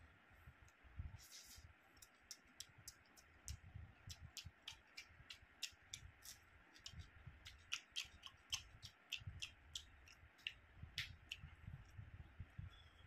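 Faint close-up eating sounds: chewing and mouth smacks, a run of sharp wet clicks with soft low thumps, as rice and curry are eaten by hand along with raw onion.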